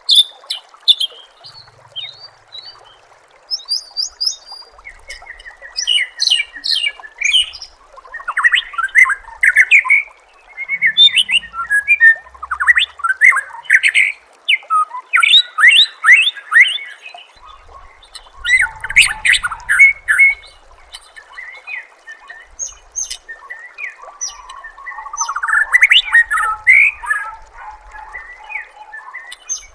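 White-rumped shama (murai batu) singing a varied song: loud phrases of fast trills and rapidly repeated notes mixed with sharp high notes, separated by short pauses.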